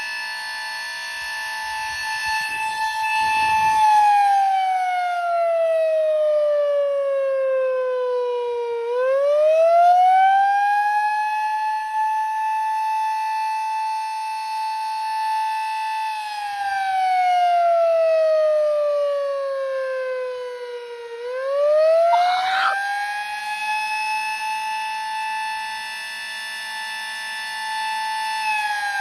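Sterling Model M single-head, 16-port mechanical siren sounding the Attack signal: its tone holds high, slides down over several seconds, then climbs back up, twice over. A rich stack of overtones over the main pitch; the siren is running in healthy order.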